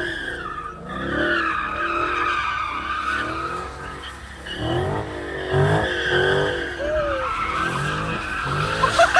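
A car engine revving up and down in about six sweeps while its tyres squeal and slide as the car is drifted in circles.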